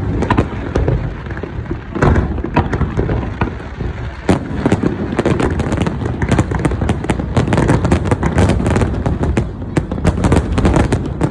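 Fireworks going off: sharp bangs over a steady low rumble, with heavier single bangs about two and four seconds in, then a dense run of rapid crackling.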